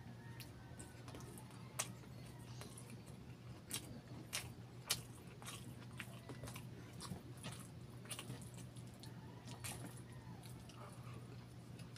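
Close-up chewing of saucy chicken barbecue and rice, with sharp wet mouth clicks scattered irregularly through the chewing. A steady low hum runs underneath.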